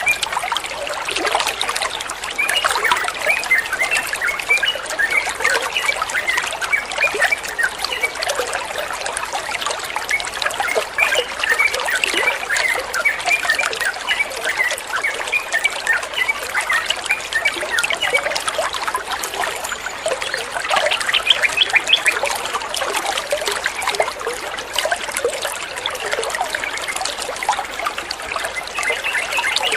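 Running water trickling and burbling steadily.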